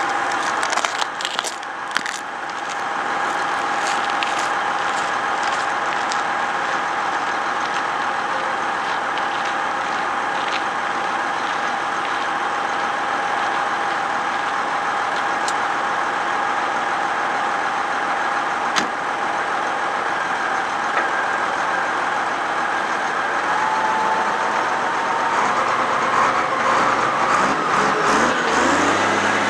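A vehicle engine running steadily with a constant high whine. A few clicks and crackles come in the first seconds, the whine rises slightly late on, and a deeper engine note comes in near the end.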